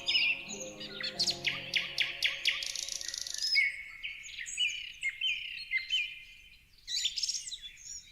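Several songbirds chirping and calling over one another, with short whistled notes that slide up and down and a fast high trill about three seconds in. A soft, sustained music pad underneath fades out during the first half.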